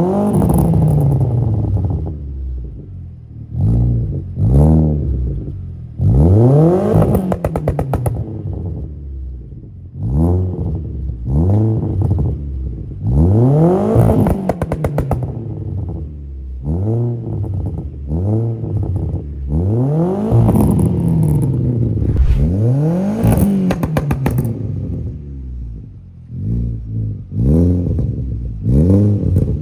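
Audi A4 2.0 TFSI turbocharged four-cylinder breathing through HKS mufflers, revved again and again in quick blips, about a dozen in all. Several of the blips fall away into rapid crackling pops on the overrun, from an ECU tune made for pops and bangs.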